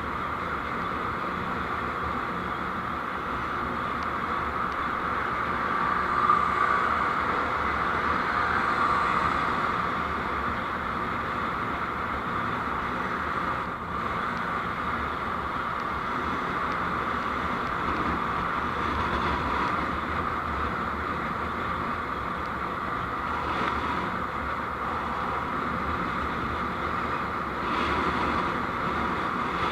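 Steady road noise of a moving vehicle, a mix of engine, tyres and wind, swelling slightly about six to nine seconds in.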